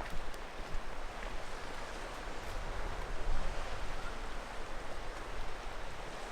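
Steady outdoor wind and sea-surf noise, with a low rumble of wind on the microphone.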